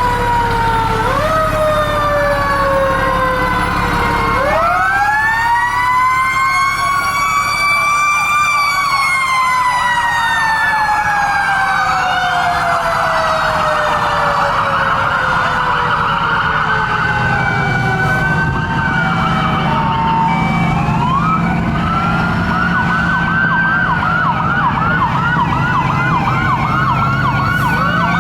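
Several fire truck sirens sounding at once. About four seconds in, one siren rises in pitch and then slowly falls, over others wailing and yelping rapidly, with the low rumble of truck engines underneath.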